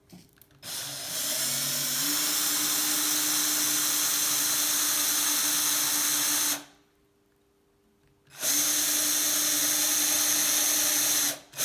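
Small electric drill running under load as it bores 2 mm pilot holes in a bicycle seat post, in two runs: one of about six seconds whose motor pitch steps up about two seconds in, then, after a short pause, one of about three seconds.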